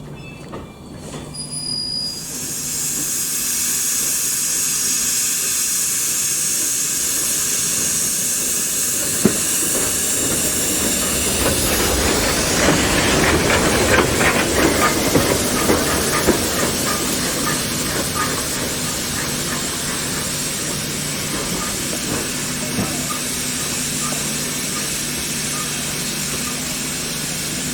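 Steam locomotive letting off steam: a loud steady hiss starts about two seconds in. Around the middle, louder rough noise with clanks joins it for several seconds, then it settles back to the hiss.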